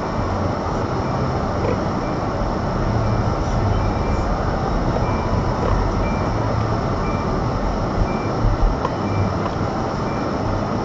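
Car running slowly, steady engine and road rumble from inside the cabin, with a short high electronic beep repeating about every 0.7 seconds.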